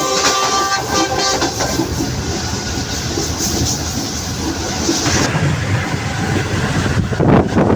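Moving passenger train heard from on board: steady rumble and clatter of wheels on the track. About five seconds in the sound turns deeper, and gusts of wind on the microphone start near the end.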